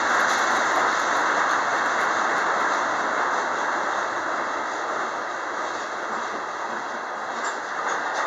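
Freight train of tank cars rolling past, a steady rumble of steel wheels on rail that slowly eases in level.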